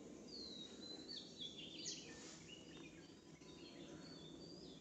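Small birds chirping faintly: a string of short high calls, some sweeping down in pitch, over a steady low background rumble.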